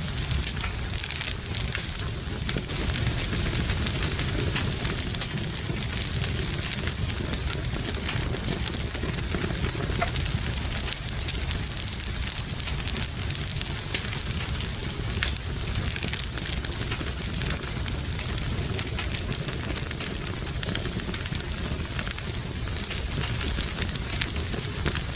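A wood fire crackling in a fireplace, with many small sharp pops over a low steady rumble, mixed with steady rain.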